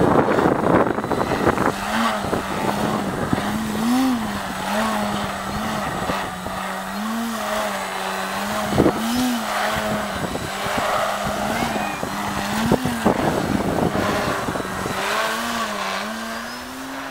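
Electric RC aerobatic plane in flight: the Turnigy brushless outrunner motor and 15x8 propeller give a steady hum-like whine that swells briefly higher in pitch several times with throttle bursts. A rush of wind noise is heavy over the first two seconds.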